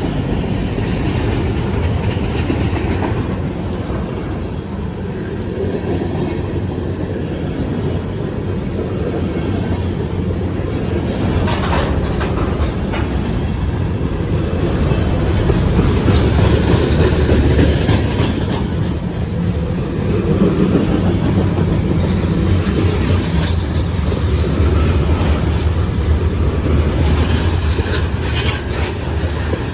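CSX mixed manifest freight train rolling by close at hand: a steady heavy rumble of cars on the rails, with wheels clicking over rail joints now and then.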